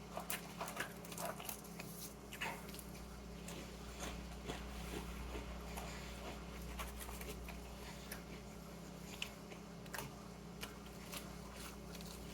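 A person chewing beer-battered onion rings: a run of short crisp crunches, thickest about the first second, over a steady low hum.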